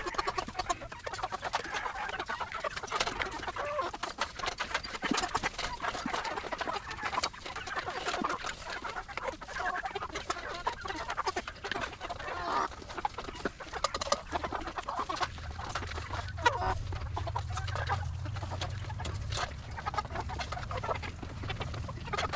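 A crowded flock of meat chickens clucking and squawking in a feeding frenzy, mixed with a constant clicking and tapping. A low steady rumble joins in about two-thirds of the way through.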